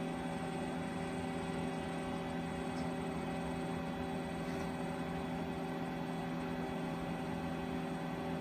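A steady hum made of several constant tones, with a couple of faint light ticks partway through.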